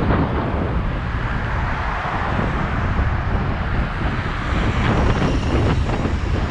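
Steady rumble of wind buffeting the microphone on a moving bicycle, mixed with highway traffic noise.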